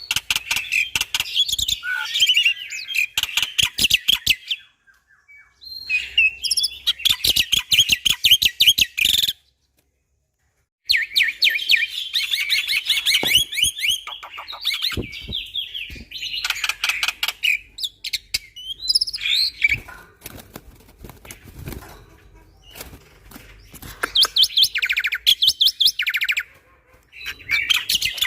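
Black-winged myna (jalak putih) singing loudly in bouts of rapid, chattering note series, with short pauses between bouts and one brief full silence about ten seconds in.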